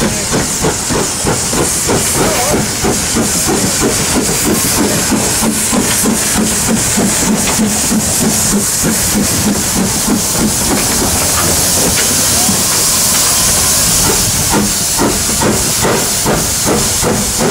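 Steam tank engine working with a rhythmic exhaust chuff over a steady hiss of steam. The beats blur into a continuous hiss in the middle and stand out again near the end.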